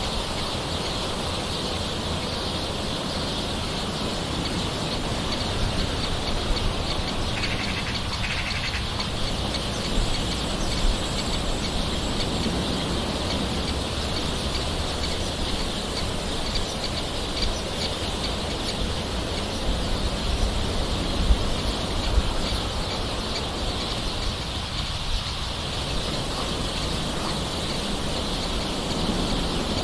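Steady light rain with bird calls over it, two short calls standing out about seven to eight seconds in.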